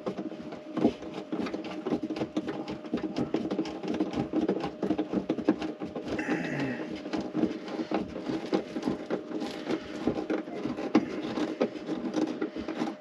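Close handling noise of hands working on parts in a tight space: a dense, irregular run of small clicks, taps and scrapes, with a brief low mumble about six seconds in.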